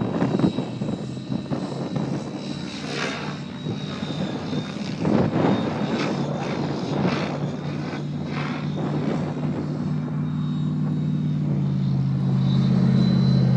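Align T-Rex 700E electric RC helicopter flying 3D aerobatics: a steady rotor hum with a thin high motor whine, broken by several short whooshing blade-bark bursts as the blades load up in the manoeuvres. The hum grows louder near the end.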